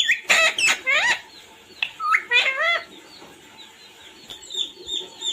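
Parrot calling: a string of loud, pitched calls that swoop up and down for the first three seconds or so, followed by softer short chirps repeated about twice a second.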